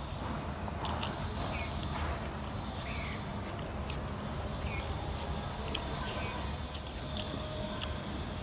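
Close-up eating sounds: chewing, with irregular wet clicks and lip smacks every second or so. A few short, high, falling chirps sound in the background, over a steady low rumble.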